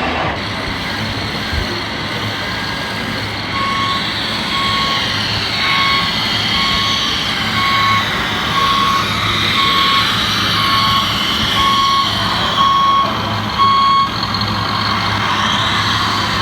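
Reversing beeper of an RC model truck sounding about once a second, roughly a dozen beeps, stopping near the end. Under it runs a steady mix of model machinery motor noise with a low hum.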